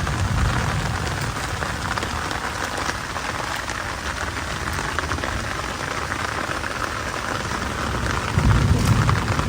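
Heavy rain falling steadily, with a low rumble of thunder near the start and another about eight and a half seconds in.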